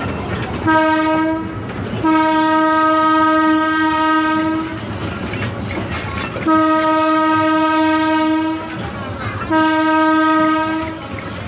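Tourist train sounding four single-note warning blasts as it approaches a level crossing: a short one, two long ones and a shorter last one, over the steady rumble of the train.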